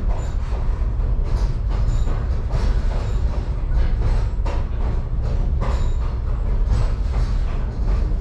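Excursion train rolling along the track: a steady low rumble with wheels clicking over rail joints at uneven intervals.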